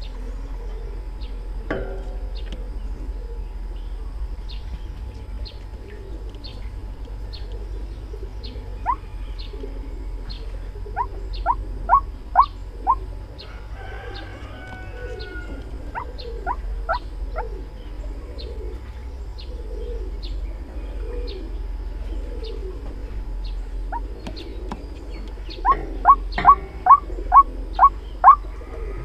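White-breasted waterhen calling, played as a trapping lure: runs of short, sharp rising notes, four to seven at a time at about three a second, with the loudest run near the end. A faint regular ticking and a low steady hum run underneath.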